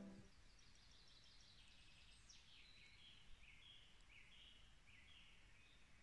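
Faint songbird singing: a string of short high chirps and a quick falling trill, just after background music fades out.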